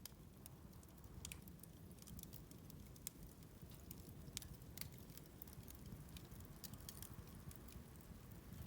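Bonfire burning, crackling faintly with scattered small snaps and pops.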